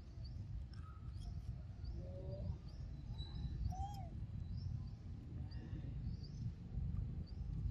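Small birds chirping, many short high calls scattered throughout, with a few lower whistled calls, over a steady low rumble.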